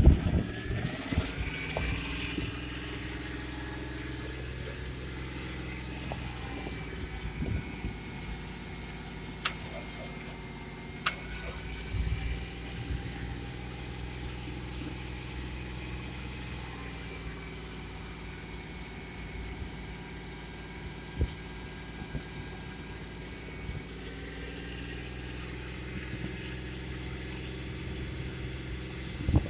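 Engine idling steadily, the donor Chevy Silverado running with jumper cables hooked to a flat battery. Two sharp clicks come about ten seconds in.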